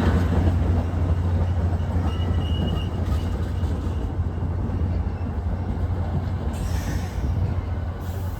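NJ Transit commuter train rumbling past, a steady low drone with rail noise that slowly fades, and a faint brief high squeal about two seconds in.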